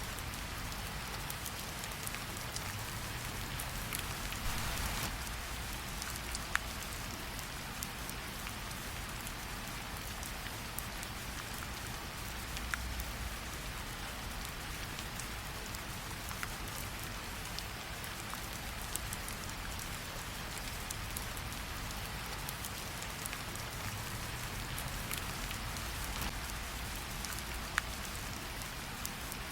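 Steady rain falling, mixed with a fireplace crackling. A few sharp pops stand out: one about a quarter of the way in, one near the middle and one near the end.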